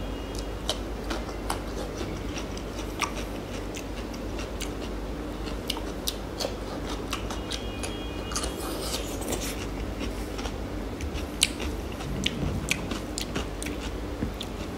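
Close-miked chewing and biting of food, with many sharp wet mouth clicks and crunches scattered irregularly, and a brief crisp crunch a little past halfway.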